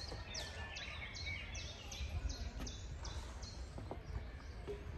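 A songbird singing a run of high, evenly repeated notes, about three a second, stopping about three and a half seconds in, over a low steady rumble.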